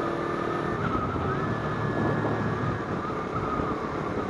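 Kawasaki Z250 parallel-twin engine running steadily while the motorcycle is ridden, with wind noise over the microphone.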